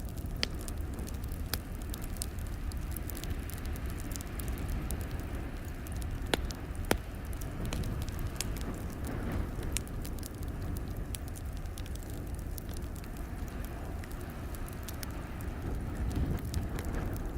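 Wood fire crackling in a fireplace: a steady low rumble with scattered sharp pops and crackles, two of them louder about six and seven seconds in.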